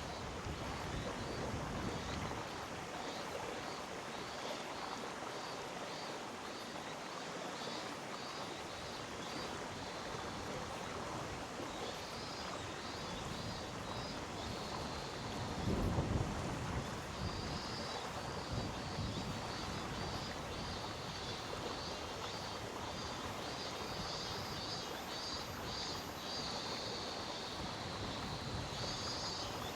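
Mountain stream rushing steadily over rocks, with a high rhythmic chirping of insects over it and a brief low rumble about halfway through.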